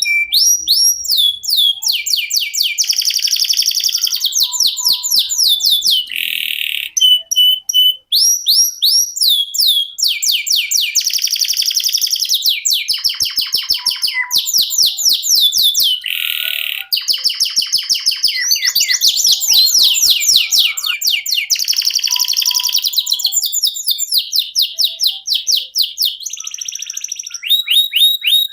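Domestic canary singing a long continuous song of rapid trills, with each phrase a fast run of repeated rising or falling notes, and a few short buzzy and steady whistled notes between them.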